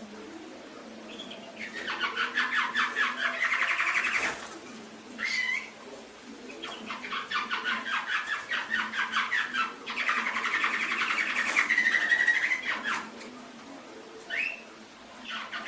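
Domestic canary singing: two long phrases of rapid trilled notes, the second about six seconds long, with a few short single calls between and after them.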